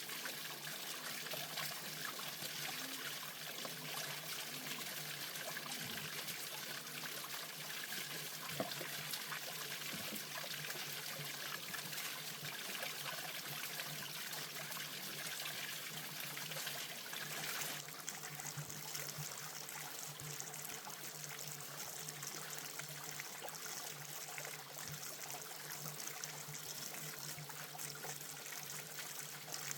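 Water trickling steadily, with the higher hiss easing slightly a little over halfway through.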